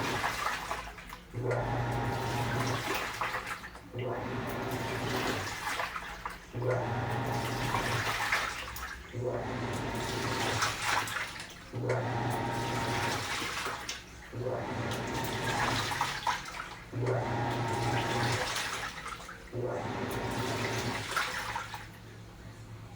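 Panasonic 12 kg top-loading washing machine agitating clothes in water: the drive motor hums and the load sloshes in repeated bursts about every two and a half seconds, with short pauses between strokes.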